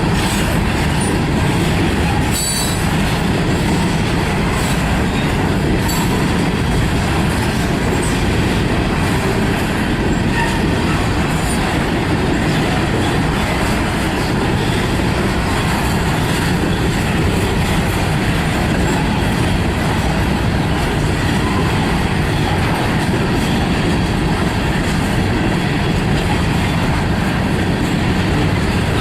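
Freight train rolling past close by, a steady loud rumble of steel wheels on rail, with a brief high wheel squeal about two seconds in.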